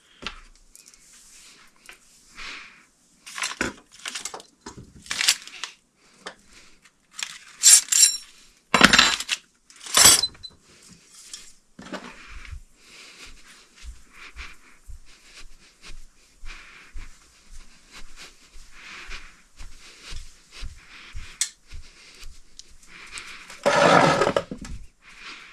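Metal ceiling-fan mounting hardware being handled: repeated clinks, rattles and scrapes of the hook, bracket and small parts, with a louder, longer scrape near the end.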